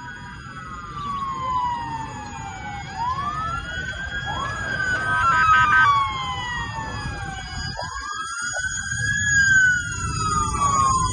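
Several emergency-vehicle sirens wailing at once, their pitch slowly sweeping up and down and overlapping, over a steady low rumble.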